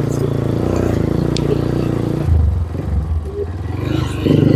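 Motorcycle engine running while riding a rough downhill path. Its note drops about two seconds in and picks up louder again near the end.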